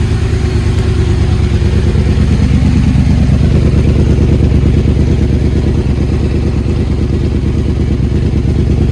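Superbike engine idling steadily through an Akrapovic slip-on exhaust with the catalytic converter removed, a loud, even, rapid pulsing burble.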